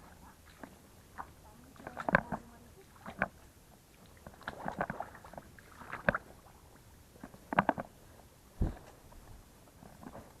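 Hands groping in wet mud and shallow water, making scattered short squelches and splashes about every second or two, with a dull low thump near the end.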